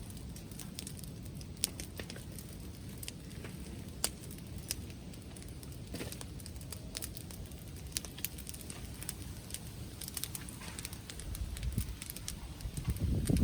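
Wood bonfire crackling, with scattered sharp pops, over a low rumble of wind on the microphone that grows louder near the end.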